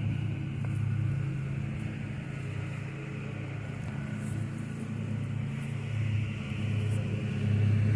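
Zero-turn lawn mower engine running steadily, growing a little louder near the end.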